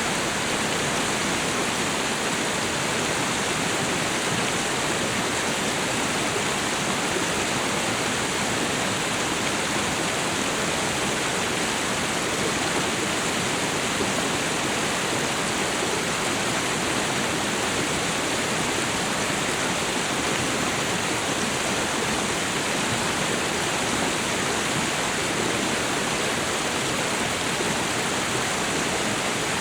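Waterfall and river water rushing, a steady even roar of falling and flowing water with no change throughout.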